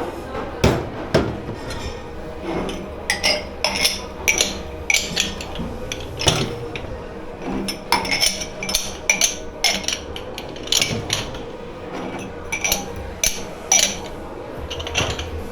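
Dishes, pans and cutlery being handled and stacked in a dish pit: a steady run of irregular clatters and bright clinks, some ringing briefly.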